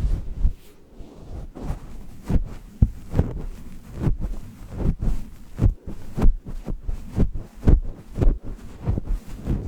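A run of short, low, muffled thumps, roughly two a second and unevenly spaced, pulsing like a heartbeat in a baby sleep-sound track.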